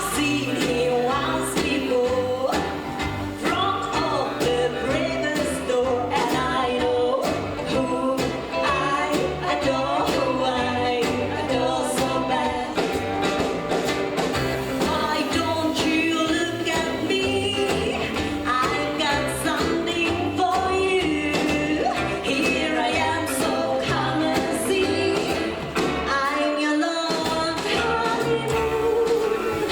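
Live rockabilly band playing a song with a lead vocal over a steady bass-and-drum beat. The bass drops out for a moment near the end.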